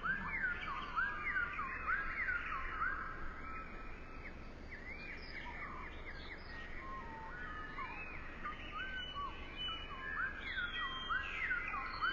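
Several birds chirping: many short notes that swoop up and down, overlapping one another, over a faint steady hiss.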